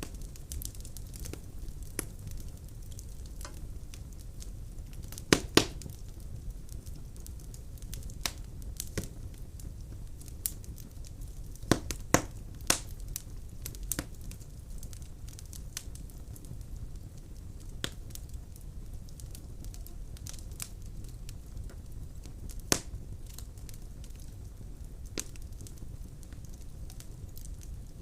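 Wood fire crackling in a fireplace: a steady low rumble of the flames with scattered sharp pops and snaps from the burning logs. The loudest pops come as a pair about five seconds in, another pair around twelve seconds, and a single one near twenty-three seconds.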